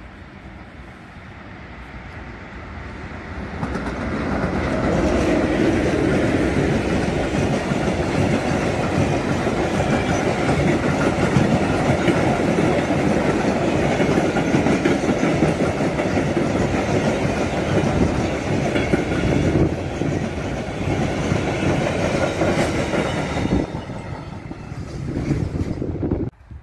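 Freight train hauled by an electric locomotive passing close by, its wagon wheels clattering over the rails. The sound builds over the first few seconds as the train approaches, stays loud while the wagons go by, and drops away near the end.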